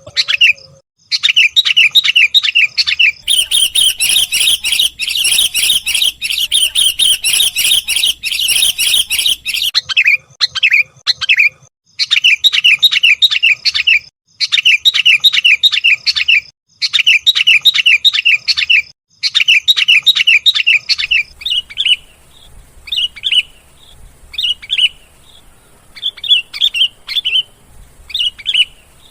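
Sooty-headed and yellow-vented bulbuls calling in fast, chattering runs of chirps, in repeated bursts with short gaps. The calls are densest and loudest in the first third and sparser near the end. This is a bird-lure recording of agitated bulbul calls.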